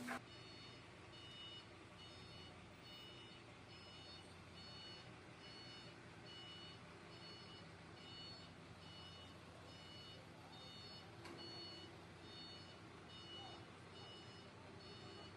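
Vehicle reversing alarm beeping steadily and faintly, about three beeps every two seconds, over a low steady engine hum.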